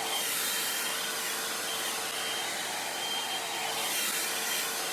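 2-in-1 hair dryer and volumizer brush running on its high setting: a steady rush of blown air with a steady hum and a faint high whine from the motor.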